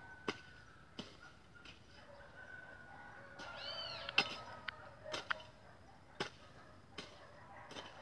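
Faint outdoor ambience with scattered sharp clicks, the loudest about four seconds in. A bird gives a short arched two-note chirp just before it. A faint steady high tone fades out about halfway through.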